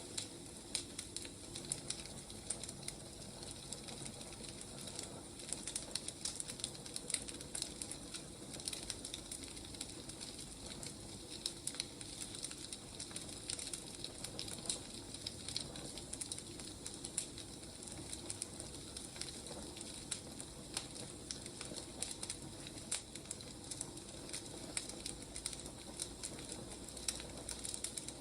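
Firewood burning: a steady hiss with frequent small irregular crackles and pops.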